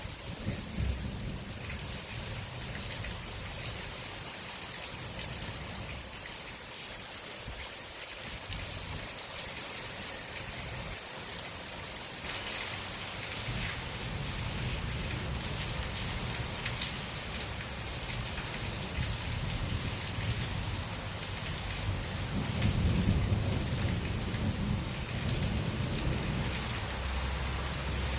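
Heavy rain falling steadily, growing heavier about halfway through, with low rolls of thunder near the start and again near the end.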